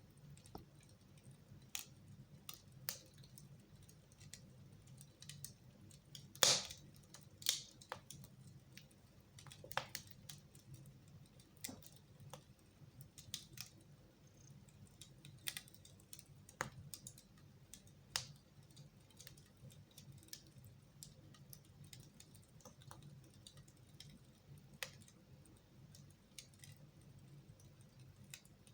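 Wood fire crackling in a fireplace: irregular sharp pops and snaps, the two loudest about six and a half and seven and a half seconds in, over a faint steady low hum.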